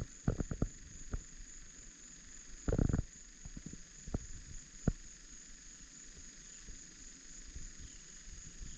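A low rumble with a few scattered soft knocks, the loudest a short bump about three seconds in, over a steady high-pitched whine.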